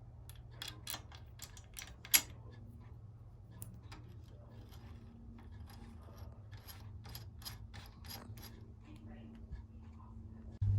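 Light, irregular mechanical clicks and ticks from bicycle parts being worked on, with one sharper click about two seconds in, over a steady low hum.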